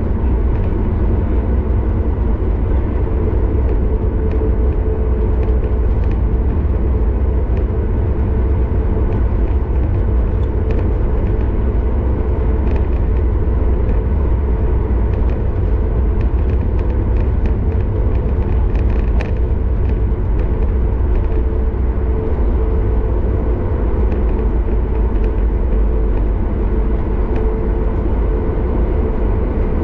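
Cabin noise inside a Boeing 737 MAX 8 taxiing: a steady low rumble from its CFM LEAP-1B engines at taxi power and the wheels rolling on the taxiway, with a steady hum and scattered faint clicks.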